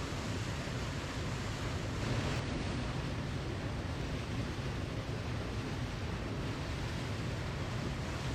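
A waterfall's falling water rushing in a dense, even stream of noise, heaviest in the low end, with no change in strength.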